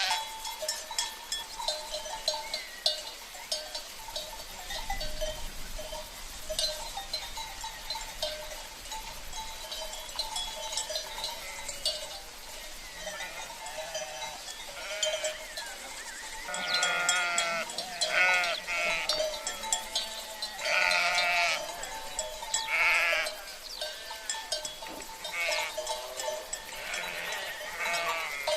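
A flock of sheep with bells: bells clanking and ringing throughout, and several bleats coming one after another in the second half.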